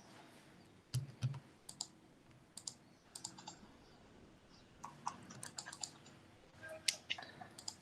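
Scattered, irregular key clicks of someone typing on a computer keyboard, entering a calculation.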